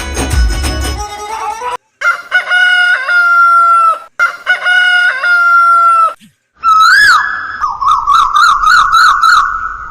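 Bird calls: two long calls held at a steady pitch for about two seconds each, then a short rising-and-falling call and a rapid warbling call. Music plays at first and cuts off under two seconds in.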